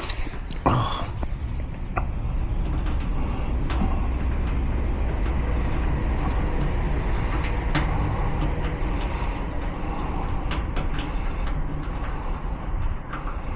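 A steady low mechanical rumble, like an engine running, with scattered light clicks and taps over it.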